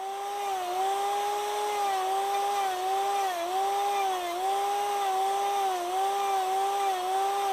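Electric power tool spinning a rotary carving gouge into wood: a steady motor whine whose pitch dips briefly about once a second as the cutter bites in and bogs the motor.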